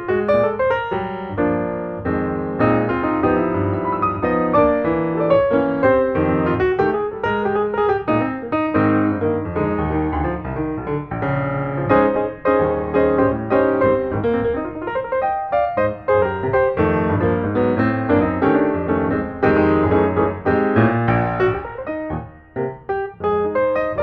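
Background piano music, a continuous melodic piece played with many quick notes.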